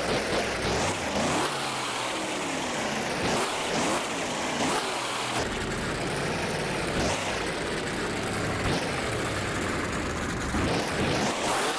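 Truck engine revving hard again and again, its pitch rising and falling every second or so.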